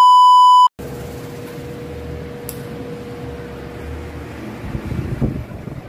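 A short, loud electronic beep, then a Venti Delta Ventura 60 cm wall fan running with a steady whir and a hum. Near the end the fan's air buffets the microphone unevenly.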